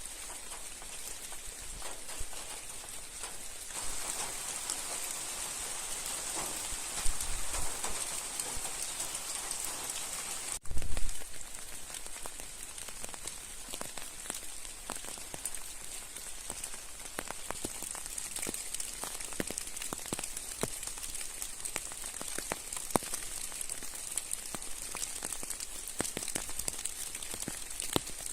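Rain falling steadily on a surface: a continuous hiss with many individual drop ticks. A brief low thump about eleven seconds in.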